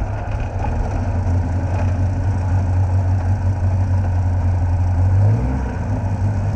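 Vintage Riley roadster's engine running as the car drives along, heard close up from the bonnet, with a steady low note. About five seconds in the note briefly rises and then drops.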